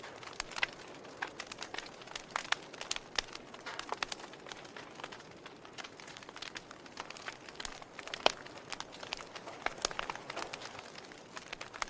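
Fire crackling, with irregular sharp pops, several a second, over a soft steady hiss; the loudest pop comes about eight seconds in.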